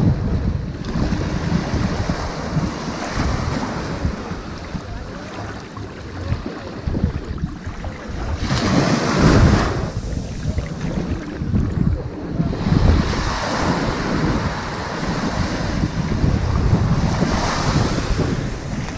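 Ocean waves breaking and washing up onto a sandy beach in slow swells, with the biggest wave about halfway through and another surge near the end.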